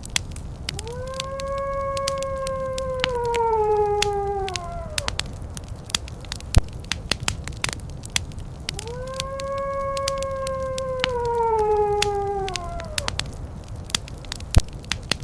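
Wood fire crackling and popping over a low, steady rumble. Twice, a long howl rises, holds for a few seconds and slides down in pitch as it fades.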